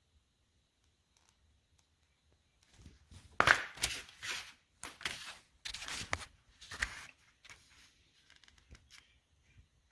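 Handling noise: after a few quiet seconds, a run of short rustling, scraping bursts, the loudest near the start of the run, tapering into a few faint clicks.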